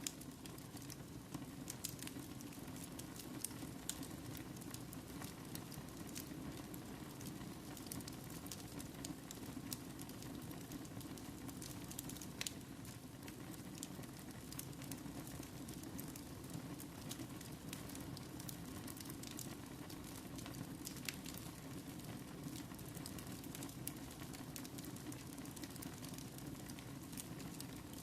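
Wood fire crackling in a fireplace: a steady low rush of burning with frequent small sharp pops and snaps scattered throughout.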